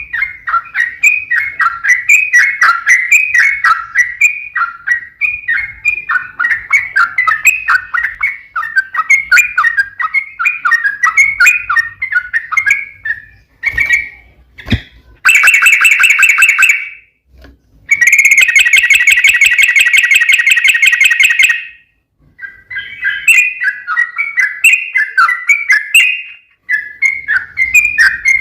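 Yellow-vented bulbul (trucuk) song played as a lure recording: rapid, chattering phrases repeated without pause, broken about halfway by two long, buzzy trills, a short one and then one of several seconds, before the quick chatter resumes.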